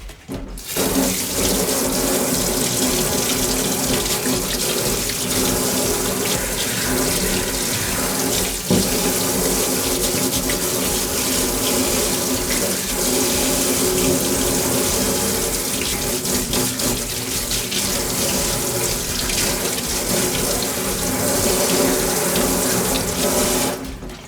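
Water running steadily from a kitchen tap into a sink, starting about half a second in and shutting off shortly before the end.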